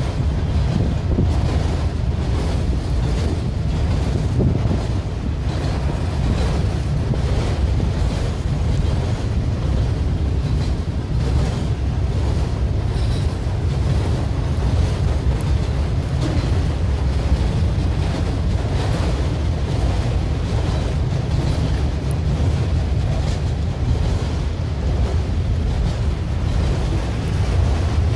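Freight train of enclosed autorack cars rolling past close by: a steady rumble of steel wheels on rail, with wind buffeting the microphone.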